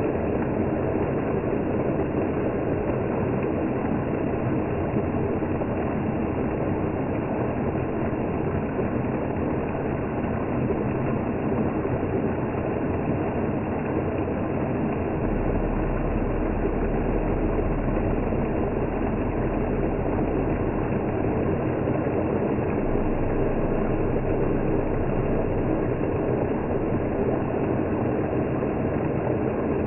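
Electric blender motor running with a steady low hum.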